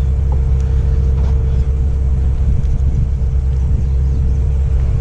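Pickup truck engine idling: a steady low rumble with a constant hum above it.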